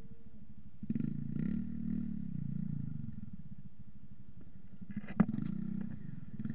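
Motorcycle engine running at low revs, its pitch rising and falling briefly about a second in. A single sharp click sounds about five seconds in.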